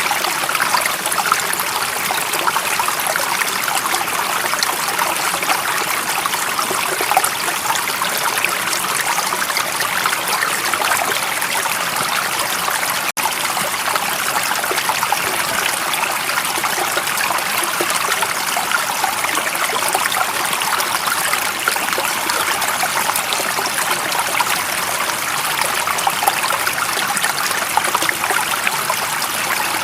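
Running water flowing and trickling steadily, an even rushing sound with no pauses, broken only by a split-second dropout about thirteen seconds in.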